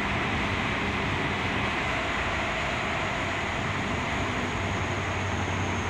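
Toyo Rapid Railway 2000 series electric train running, heard from inside the passenger car as a steady rumble of wheels and running gear.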